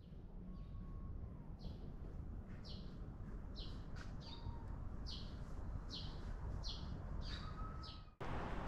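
A bird calling a string of short, falling chirps, about ten of them evenly spaced a little under a second apart, with a couple of brief thin whistles among them, over a steady low background rumble. The sound cuts abruptly to louder outdoor noise near the end.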